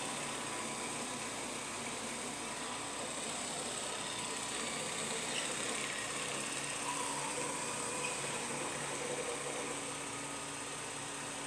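LG R76GIM robot vacuum running with its mop attachment, a steady motor and fan whir with a faint steady whine.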